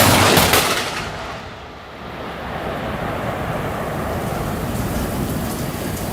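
Thunderstorm: a sudden loud crack of thunder at the very start, fading within about a second, then a steady rush of heavy rain.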